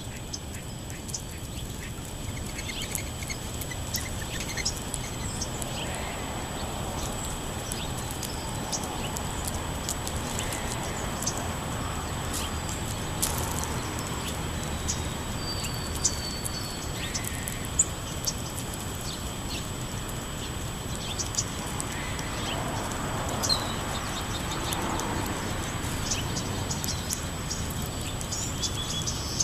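Park songbirds chirping and calling, many short high chirps scattered throughout, over a steady thin high-pitched tone.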